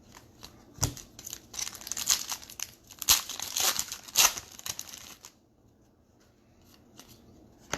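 Trading-card pack wrapper crinkling and tearing as it is opened, in dense crackles from about a second in until about five seconds, after a single sharp click; then only a few faint ticks.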